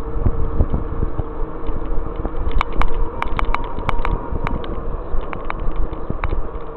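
Electric bike under way: a steady motor whine over low wind and road rumble, with sharp clicks and rattles from about two and a half seconds in.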